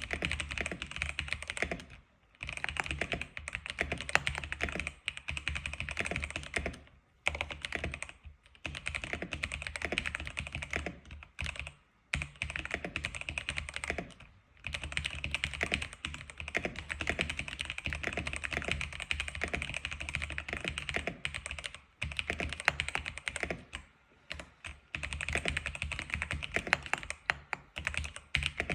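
Continuous fast typing on an X87 mechanical keyboard: a dense run of key clicks, broken by a few short pauses.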